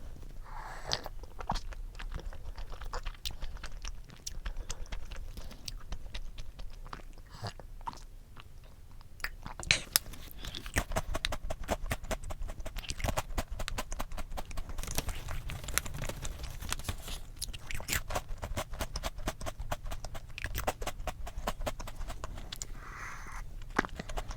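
A person biting and chewing crunchy food close to the microphone, with crisp crunches that come thick and fast from about ten seconds in.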